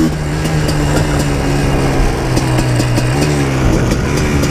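2000 Yamaha Blaster 200's single-cylinder two-stroke engine running at a fairly steady speed, its pitch dipping slightly about three seconds in.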